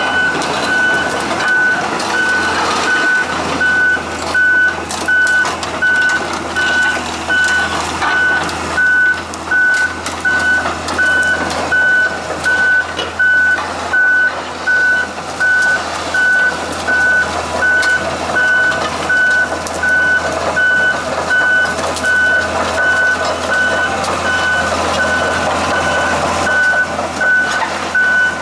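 A Komatsu PC200LC-6 excavator's warning alarm beeps steadily at about one and a half beeps a second over its running diesel engine. This is the kind of alarm that sounds while the machine is tracking.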